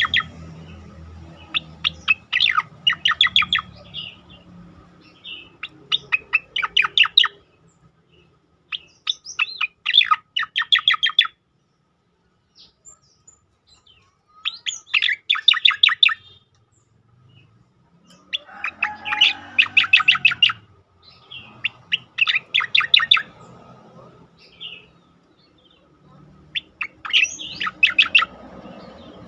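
Striated grassbird (cicakoreng) singing its rapid 'shot' phrases: short bursts of fast, sharp repeated notes, each about a second long, repeated again and again with brief pauses between.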